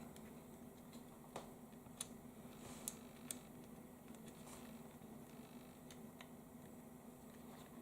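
Near silence with a steady low hum, broken by a few faint, sharp clicks and taps from small electronic parts being handled as a satnav's battery connector is lined up with its motherboard socket.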